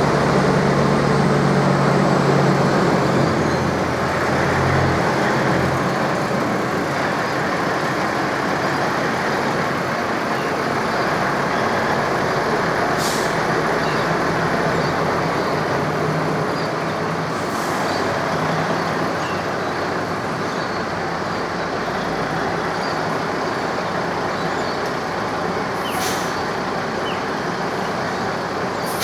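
Cane-train locomotive hissing steadily and loudly. A low engine hum fades away over the first few seconds, and there are a few short, sharp high hisses later on.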